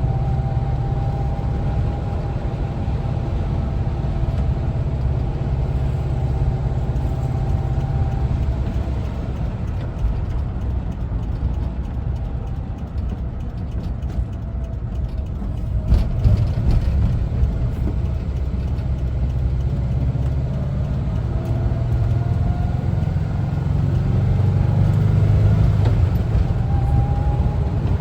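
Air-cooled Type 4 flat-four engine of a 1974 Volkswagen Westfalia camper bus running while driving, with road rumble. Its note holds steady, falls as the bus slows through the middle, then climbs again as it accelerates. There is a single sharp knock just past halfway.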